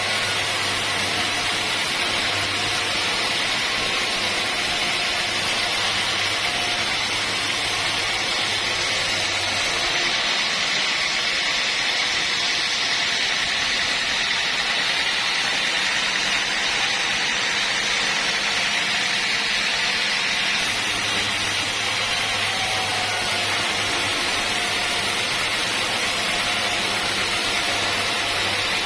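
Steady running noise of sawmill machinery, with no breaks. A low hum underneath stops about ten seconds in and returns about ten seconds later.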